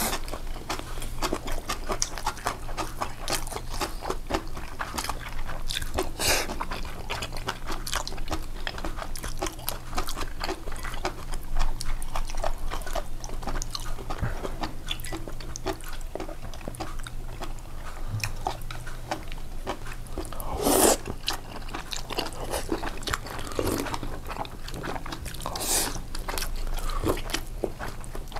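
A person eating: steady chewing and crunching of food, with many small wet clicks and a few louder, brief noisy bursts.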